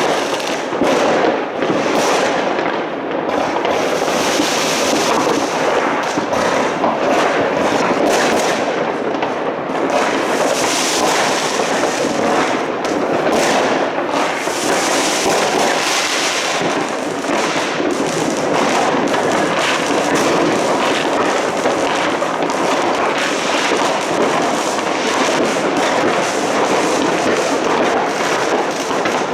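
Fireworks and firecrackers going off all at once: a dense, unbroken crackle of many overlapping bangs and pops, with no let-up.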